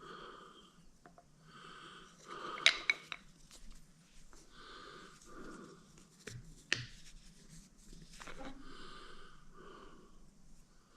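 A man breathing hard in slow, airy breaths, with a few sharp clicks as parts are handled.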